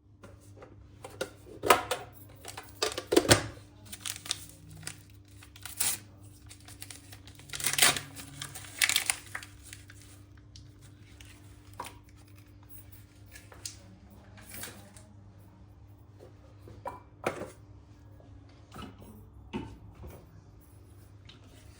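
Packaging being handled and torn open, crinkling and ripping in irregular bursts, the loudest in the first half, over a steady low electrical hum.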